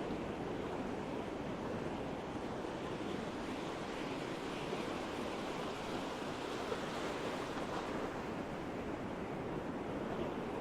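Ocean surf rushing steadily onto a beach.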